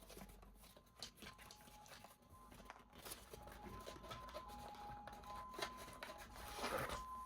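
Faint rustling, crinkling and scattered clicks of toy packaging being handled and opened, with a louder rustle near the end.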